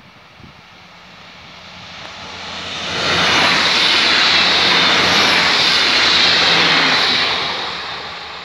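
Passenger multiple-unit train passing close at speed: the rush of wheels on rail swells over a few seconds, holds loud and steady for about four seconds, then fades as the train goes by.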